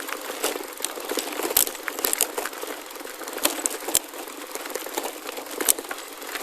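Gravel bike rolling over a gravel forest road: a steady crunching with many irregular sharp clicks and ticks from stones under the tyres.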